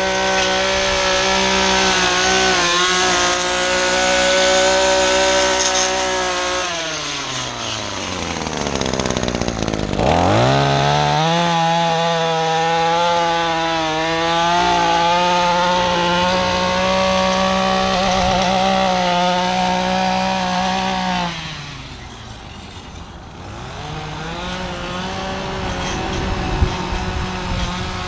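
Small handheld two-stroke engine running at high revs. About seven seconds in, its pitch falls away toward idle, then it snaps back up to full speed about ten seconds in. Near the end it drops off again and climbs back more slowly.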